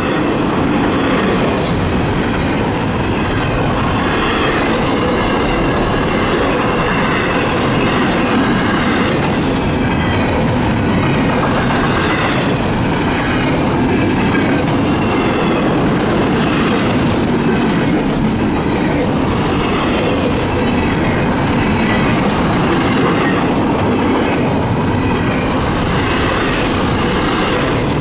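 A CSX freight train of intermodal and Tropicana cars rolling past, loud and steady, with the wheels clacking over the rail joints and some high wheel squeal.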